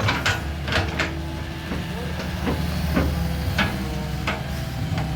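Excavator's diesel engine running steadily, with a string of short sharp hisses and clanks from the machine working at uneven intervals.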